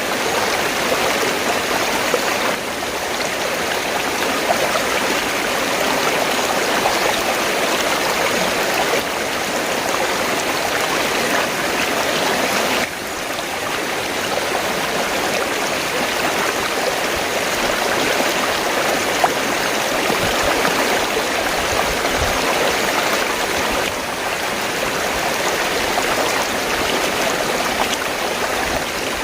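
River water flowing steadily: a continuous, even rushing of water.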